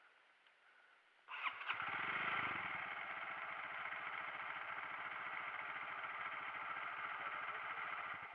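Single-cylinder dirt bike engine started, catching after a brief crank about a second in, then running at a steady idle until it is switched off near the end.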